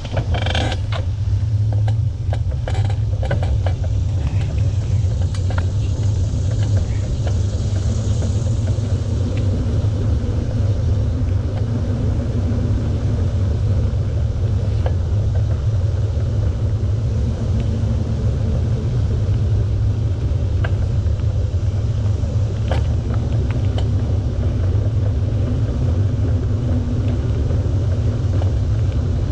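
Steady low wind rumble on the microphone of a bicycle being ridden, mixed with road noise, with a few light clicks in the first few seconds.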